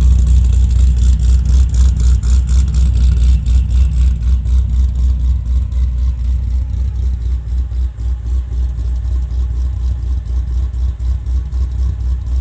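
Supercharged 427 cubic-inch V8 of a modified Corvette ZR1 idling after a cold start through a titanium exhaust, with a deep, steadily pulsing low note. A high hiss fades out over the first few seconds.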